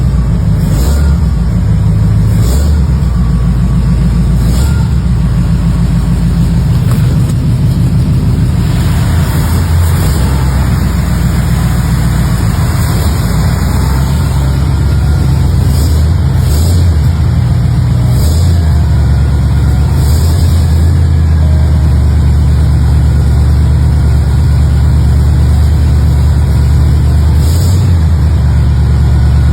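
1955 Mercury Monterey's V8 running through a custom 2-inch dual exhaust with Flowmaster mufflers: a steady, loud low exhaust rumble.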